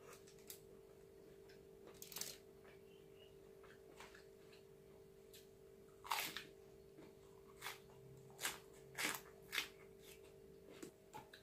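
Close-up chewing and crunching of crisp raw vegetables: scattered crunchy bites, louder and more frequent from about six seconds in, over a steady faint hum.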